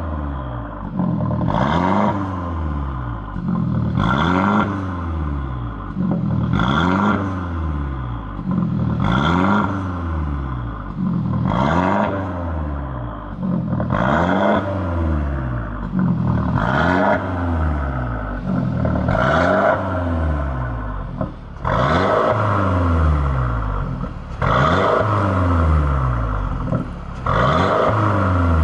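Mercedes-Benz GLC300's turbocharged four-cylinder revved over and over through an aftermarket valved (variable) full exhaust, the pitch climbing and falling about every two and a half seconds. Each rev is loudest at its peak, and the last few near the end are fuller and longer.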